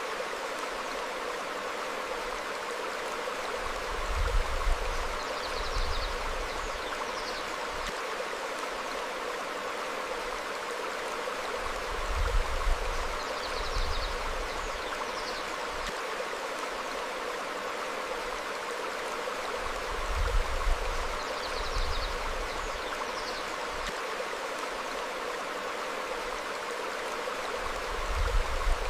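Steady rush of a stream flowing over rocks. About every eight seconds a low rumble rises under it, with a few faint high bird chirps at the same time.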